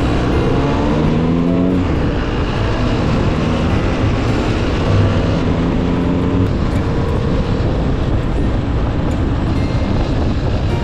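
Yamaha DT-1F's 250 cc single-cylinder two-stroke engine running, its pitch climbing over the first two seconds as it picks up revs, then dropping and holding steadier.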